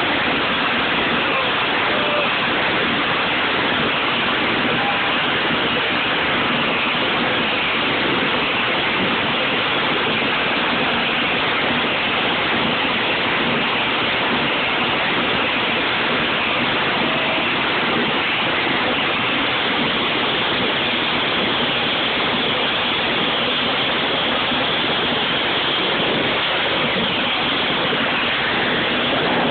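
Fuel-injected demonstration engine running steadily and very loud, a dense roar with no distinct beat that holds at the same level throughout.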